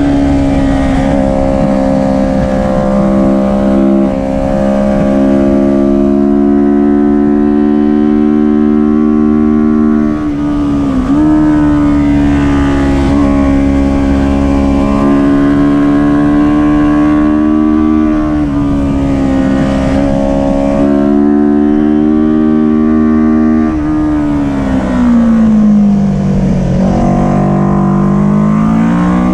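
Kawasaki Ninja 400 parallel-twin engine running at high revs under race load. The pitch holds mostly steady with a brief dip about eleven seconds in, then drops about twenty-four seconds in and climbs back up near the end.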